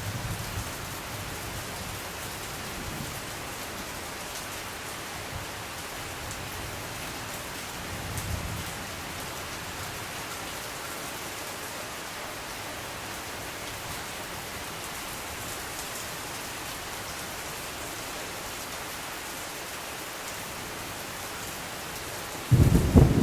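Steady rain hissing, with low rolls of thunder near the start and again about eight seconds in. Just before the end a much louder low rumble breaks in.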